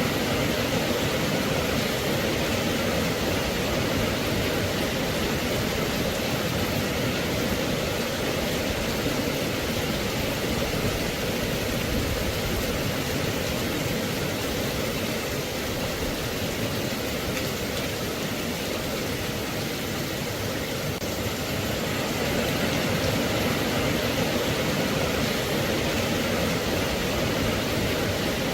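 Steady rain falling: a dense, even hiss with no single drops or other sounds standing out.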